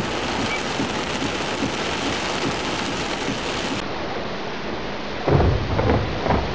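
Hail and heavy rain pelting a truck, heard from inside the cab as a dense, steady patter of small hits. About five seconds in, a loud rumble of thunder breaks in.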